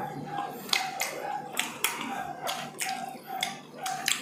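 Close-up eating sounds: chewing and lip-smacking with many sharp wet mouth clicks, about two or three a second.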